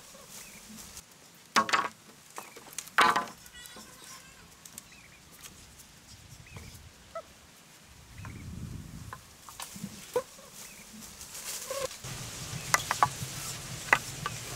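Two short, loud bird calls about a second and a half apart, followed by scattered light clicks and knocks.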